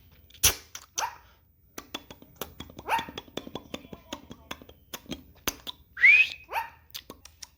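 Pet green parrot giving four short rising squawks, the loudest about six seconds in. Scattered light clicks run between the calls, with a sharp knock about half a second in.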